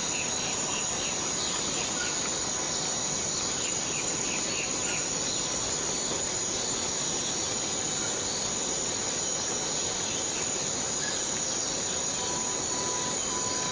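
Steady rain falling in a tropical rainforest, under a constant high-pitched insect chorus, with a few faint short chirps scattered through.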